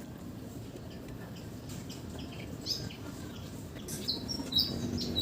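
Small birds chirping: a few faint short calls about halfway through, then a quick run of louder, high, short chirps near the end, over a steady low background rumble.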